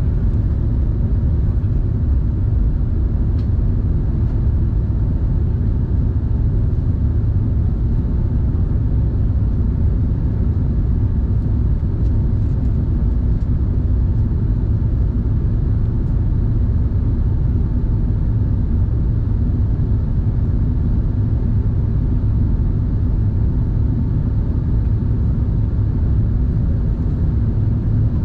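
Steady, loud low rumble inside an Airbus A380's cabin: engine and airflow noise of the airliner in flight, with a faint steady tone above it.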